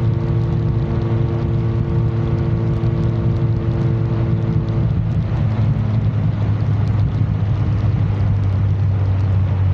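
Indian Roadmaster motorcycle's V-twin engine running at a steady, even pitch, its tone changing slightly about five seconds in.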